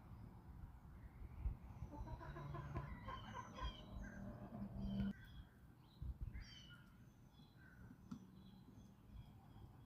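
Backyard chickens clucking in a run of short calls in the middle, with small wild birds chirping and singing throughout over a low outdoor rumble.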